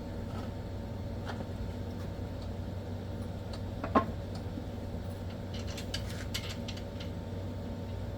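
Small metal clicks and clinks of tools and parts being handled, with one sharper knock about four seconds in and a quick run of light clicks near the end, over a steady low hum.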